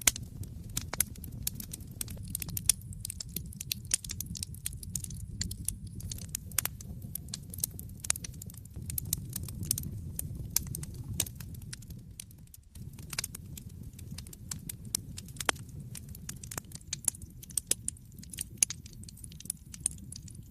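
Wood fire burning in a fireplace, crackling with frequent irregular sharp pops and snaps over a low, steady rumble of the flames. There is a brief lull a little past the middle.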